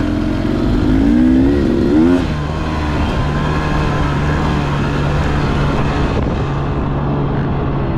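Two-stroke dirt bike engine revving, its pitch wavering up and down through the first two seconds, then running at a steady speed for the rest.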